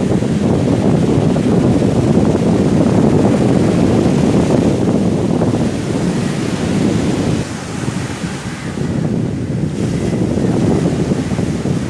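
Sea waves surging onto a beach in strong wind: a steady, heavy rushing surf that eases a little about two-thirds of the way through and then builds again.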